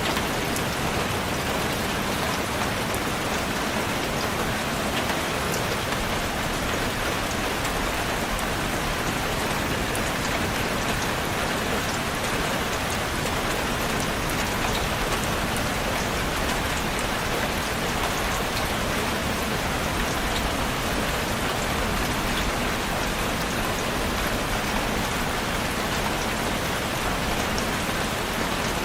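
Steady rain falling and pattering on a surface, with fine individual drop ticks through an even hiss.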